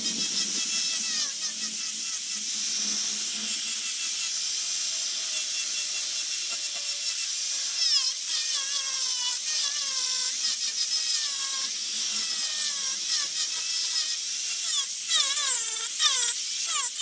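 High-speed rotary carving tool cutting into wood, its whine dipping and rising as the bit bites and eases off.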